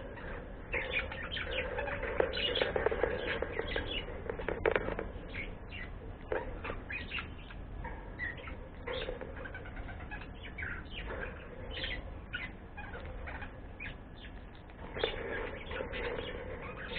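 Pet birds chirping in a dense run of short calls.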